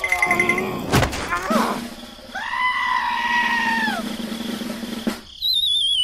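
Cartoon sound effects: a sharp bonk about a second in, squeaky high-pitched cartoon cries, then a wobbling whistle sliding down in pitch near the end.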